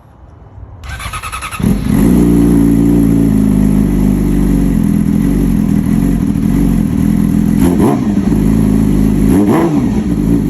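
2018 Yamaha R6's inline-four engine, fitted with an SC Project slip-on exhaust with the catalytic converter deleted, cranked on the starter and catching about a second and a half in. It then idles loudly and steadily while still cold, with two short throttle blips near the end.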